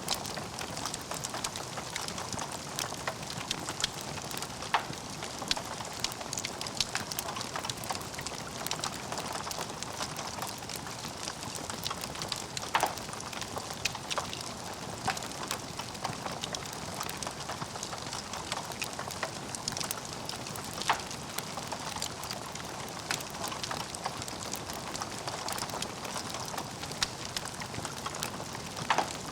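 Logs burning in a fireplace: a steady hiss with dense crackling and a few louder pops.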